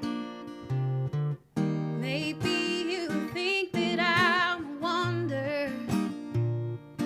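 Acoustic guitar played solo, strummed chords and picked notes. For a few seconds in the middle a wordless sung melody with wide vibrato rides over the guitar.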